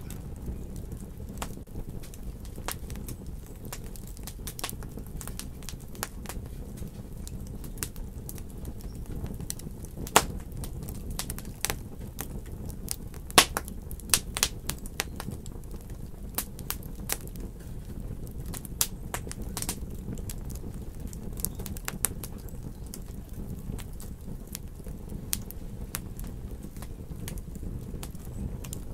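Wood fire crackling in a fireplace: a steady low rumble of the flames with irregular sharp pops and snaps, a flurry of louder pops in the middle.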